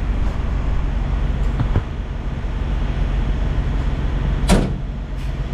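Steady low vehicle engine hum, with two light clicks about a second and a half in and a single sharp clack about four and a half seconds in.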